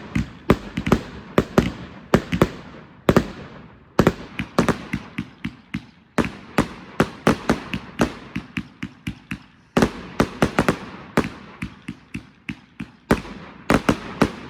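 A 205-shot consumer fireworks cake firing a fast, continuous string of loud reports, several bangs a second, each with a short crackling tail.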